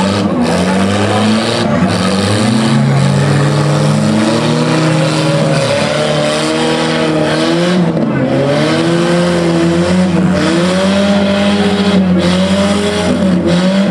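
Demolition derby cars' engines running hard: one revs up and down over and over, its pitch rising and falling every second or two, over the steadier note of another engine.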